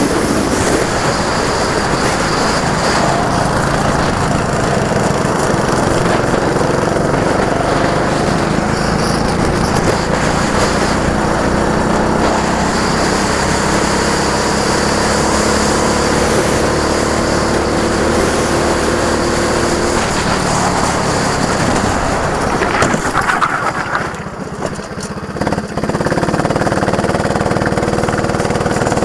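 Go-kart engine running hard on track, its pitch shifting with the throttle, then easing briefly near the end before picking up again.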